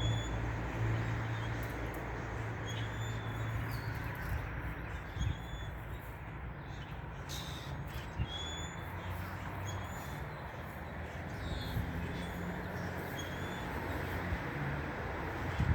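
A bird calling with short, high chirps repeated every second or so, over a steady low hum and a few sharp clicks.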